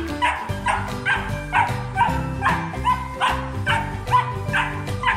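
Puppy barking in quick yips, about two a second, at a moving floor mop, over background music.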